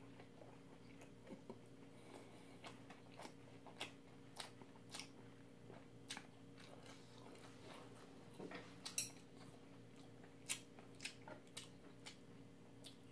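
Quiet, close-miked chewing: soft, irregular mouth clicks and smacks, about one or two a second, with a sharper click about nine seconds in. A faint steady hum runs underneath.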